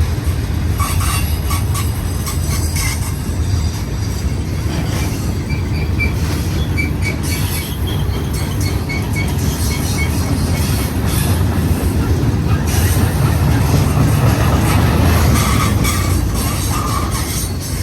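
Freight cars of a Union Pacific manifest train rolling past, a steady rumble of steel wheels on rail with short high-pitched wheel squeals now and then.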